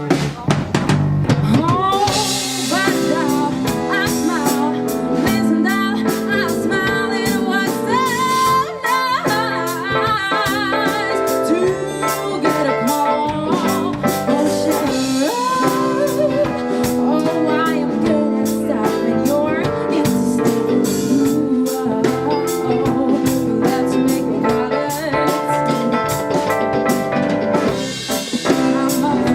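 A live band playing a song: a drum kit keeps a steady beat under keyboards and a singing voice.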